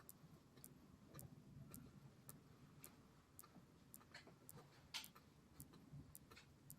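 Faint, even ticking, about two ticks a second, over a quiet low rumble.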